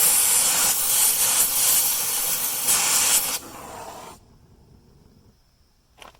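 A loud, rough, steady hiss that cuts off sharply a little over three seconds in, with a quieter hiss trailing off over the next second; a couple of faint clicks come near the end.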